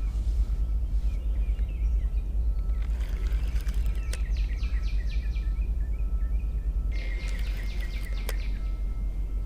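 Steady low outdoor rumble, with a songbird singing runs of quick repeated down-slurred notes twice, and two sharp clicks.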